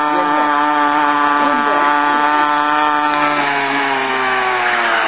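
Mini motorcycle's small engine running at high revs with a steady buzzing note. A little past halfway its pitch starts to fall slowly as the engine slows.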